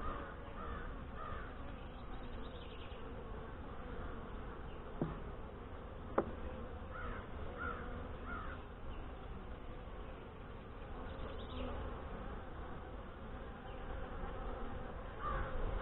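Honey bees of an open Saskatraz colony buzzing steadily around the hive. A few crow caws sound in the distance, and there are two sharp clicks about five and six seconds in.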